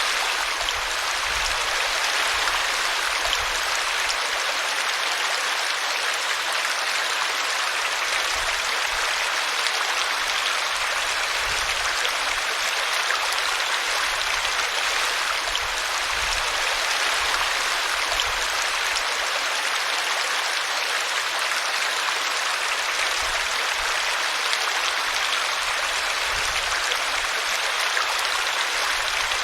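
Small brook running steadily over a tree root, a continuous even babble of flowing water.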